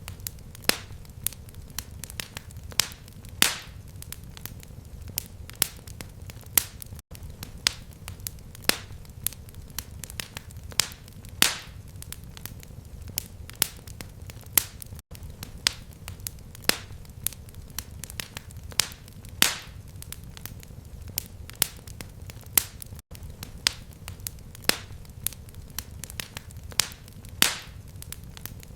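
Fireplace fire crackling: irregular sharp pops and snaps, several a second, over a steady low rumble of flames. The same pattern repeats about every eight seconds, with a very brief gap in the sound each time.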